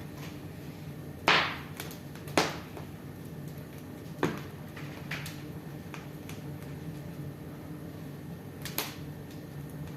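Wood fire crackling in a fireplace: a few sharp pops and fainter ticks over a steady low hum.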